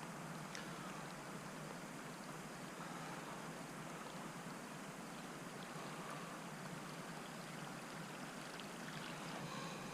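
Faint, steady wash of lake water lapping around a kayak, with a few faint short chirps.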